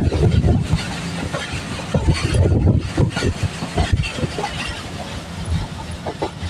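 Train running past on the rails, wheels clattering over rail joints with a steady low rumble, the knocks densest in the first half.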